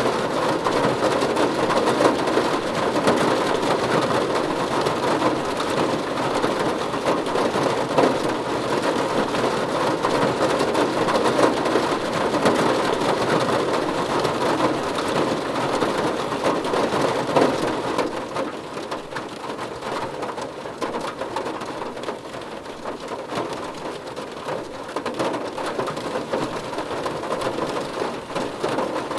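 Steady, dense rain falling, easing a little to a somewhat quieter patter about two-thirds of the way through.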